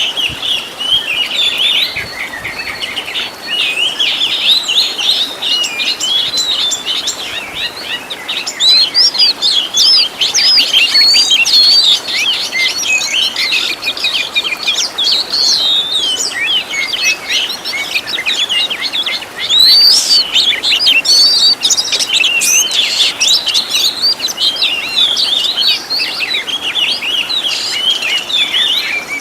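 An Oriental magpie-robin (kacer) singing without pause: a rapid, varied run of whistles, chirps and trills packed with mimicked fill-in phrases.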